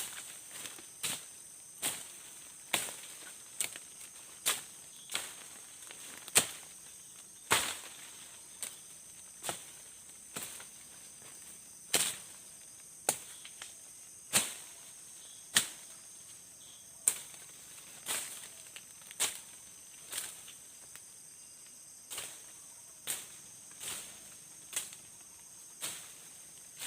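Chopping strokes of a blade cutting through undergrowth, about one sharp stroke a second, as ground is cleared for a tent site. Crickets and other forest insects drone steadily throughout.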